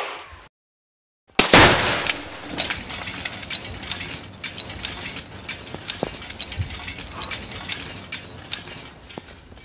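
A single loud gunshot about a second and a half in, fired at a desktop computer to test the claim that it is bulletproof, followed by many small scattered ticks and clinks.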